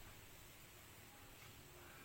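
Faint, steady wind blowing as an even hiss, with no distinct events.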